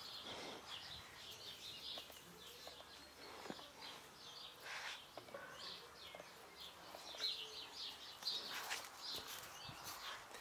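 Faint, scattered chirping of small birds, with a few soft knocks.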